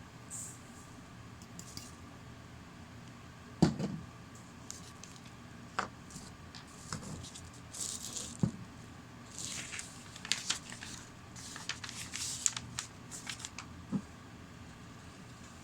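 Irregular handling noises: a sharp knock about four seconds in, a few lighter knocks and clicks, and short rustling or scraping sounds, most of them in the second half.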